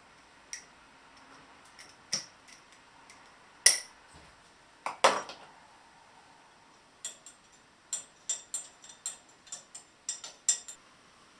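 Tableware clinking: a few separate knocks and clinks, then a quick run of light clinks, about three or four a second, over the last few seconds.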